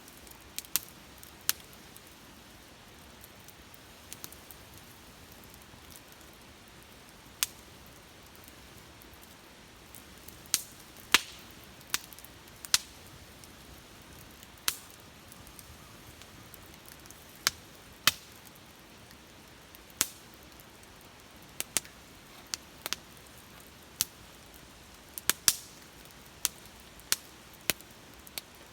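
Wood fire crackling: sharp, irregular pops and snaps over a faint steady hiss.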